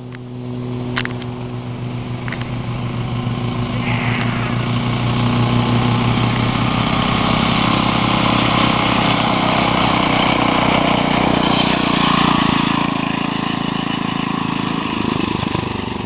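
Mini bike's small engine running steadily, getting louder over the first few seconds, then dropping off and stopping at the end.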